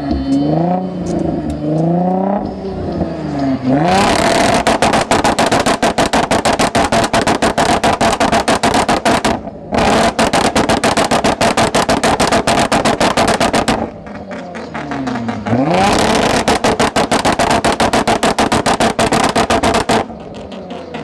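Car engine revved through a loud exhaust. It blips up and down at first, then is held at high revs in long, rapidly stuttering runs. These break off briefly near the middle and again after about 14 seconds, with a quick rev between.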